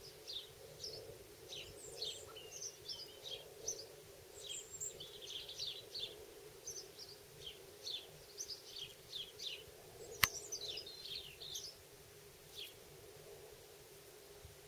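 Garden birds chirping in many short, quick high calls, which thin out near the end, over a steady low hum. A single sharp click comes about ten seconds in.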